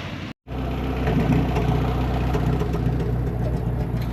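Combine harvester's diesel engine running steadily with an even low hum, after a brief cut to silence about half a second in.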